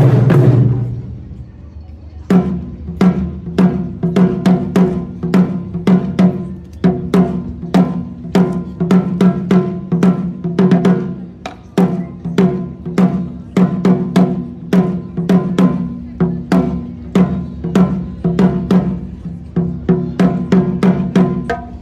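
Japanese taiko drums: one heavy stroke that rings out, then after about two seconds a fast, driving rhythm of strokes that keeps up steadily.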